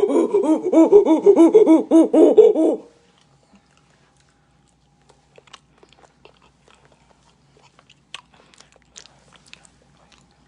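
Loud, wheezy, rhythmic laughter that cuts off abruptly about three seconds in. After that come faint wet clicks and smacks of a person chewing a mouthful of banana.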